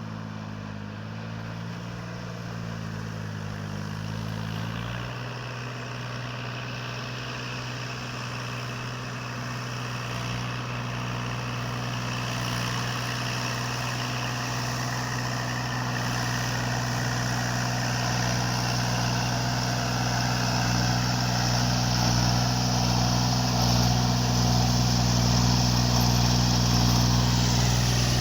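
Tractor engine running steadily, its note shifting about five seconds in and getting gradually louder.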